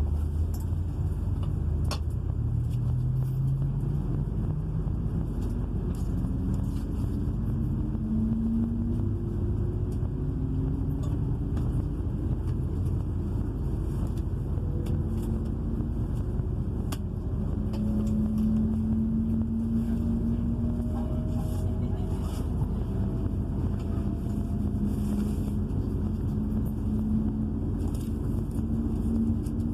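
Cabin of a Class 222 diesel-electric multiple unit accelerating from a stop: a steady low rumble from the underfloor diesel engine and running gear, with several tones that climb gradually in pitch as speed builds.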